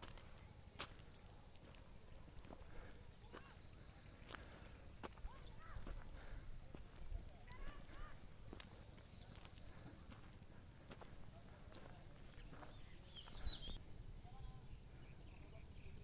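Faint steady high-pitched buzzing of insects in the hillside vegetation, with a pulsing higher trill over it. A few short chirps and clicks are scattered through it.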